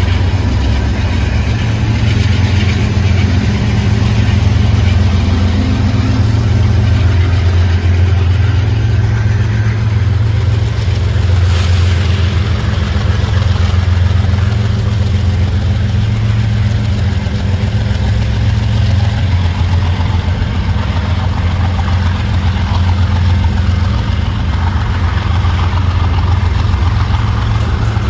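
Diesel freight locomotives running as they pull a double-stack intermodal train past and away, a steady low engine drone over the rolling noise of the train on the rails. A brief noisy burst comes about 11 seconds in.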